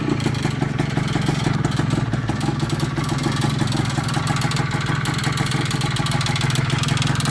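1998 Kawasaki KE100's two-stroke single-cylinder engine idling steadily, with a fast ticking rattle from the cylinder. Its cause is unknown to the owner.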